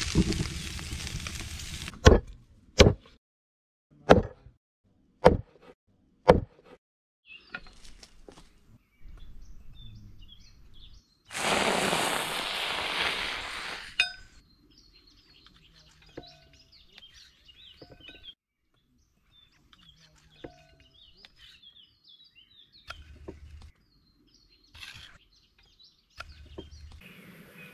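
Food sizzling for a couple of seconds, then five sharp knocks about a second apart, a few seconds of loud hissing, and faint bird chirps in the background.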